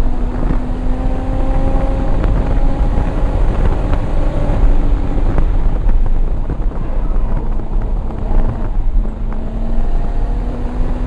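Single-turbo Toyota Supra's turbocharged inline-six running hard at speed, its pitch climbing slowly, falling back about nine seconds in and climbing again, over a heavy low rumble of wind and road noise.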